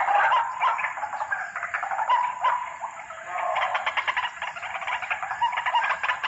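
White-breasted waterhen (ruak-ruak) calling: harsh, repeated croaking notes, breaking into a fast run of pulsed notes about halfway through.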